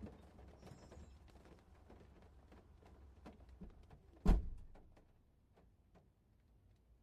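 A single loud thump about four seconds in, which fades quickly, among faint irregular clicks.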